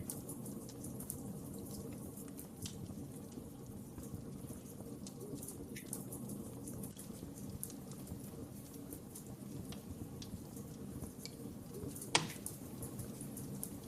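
Wood fire burning with a low steady rumble and scattered crackles and snaps, one louder pop near the end.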